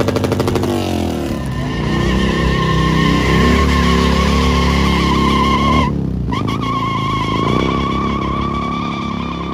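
Motorcycle held at high revs with its rear tyre spinning and squealing in a burnout. The squeal breaks off briefly about six seconds in, then picks up again.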